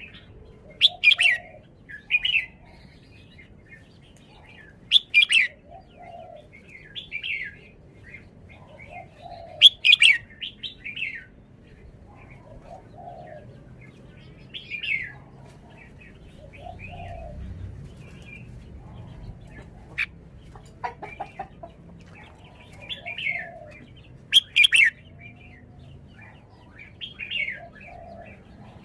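Red-whiskered bulbul singing: short, loud whistled phrases repeated every few seconds, about seven phrases in all.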